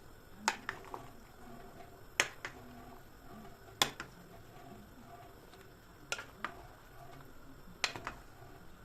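Five sharp clicks or knocks, each followed by one or two fainter ones, coming at an even pace about every second and a half to two seconds, over quiet room tone.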